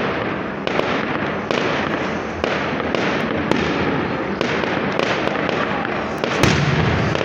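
Aerial fireworks display: shells bang one after another, about one or two a second, over a continuous crackle. The loudest and deepest boom comes about six seconds in.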